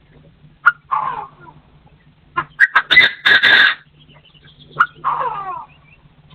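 Partridge calling three times, each call a sharp note followed by a run of falling notes, the middle call louder and higher-pitched. A steady low hum runs underneath.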